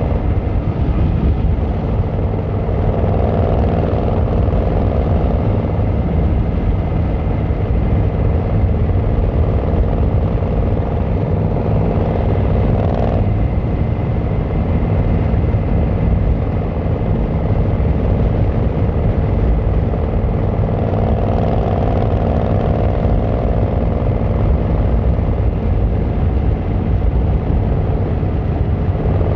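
Yamaha XVZ1300 Royal Star's V4 engine and exhaust running steadily while riding, with a higher drone that comes in twice and cuts off sharply the first time.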